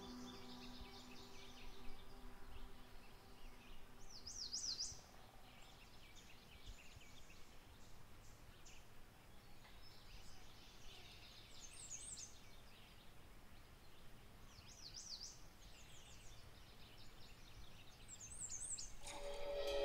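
Faint outdoor ambience with birds singing: short, high, quickly repeated chirping phrases every few seconds, with softer chirps in between. Music swells in near the end.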